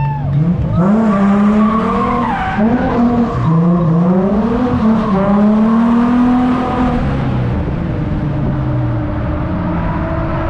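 Holden Commodore V6 engine revving hard while drifting, its pitch rising and falling repeatedly and held high for a few seconds before easing lower near the end, with tyres skidding.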